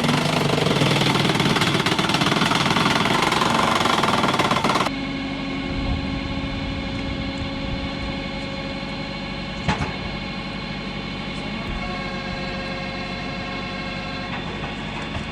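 Machinery of a hydraulic log splitter: a loud, dense noise of machine work for about five seconds, then an abrupt change to an engine running steadily, with a single sharp knock about ten seconds in.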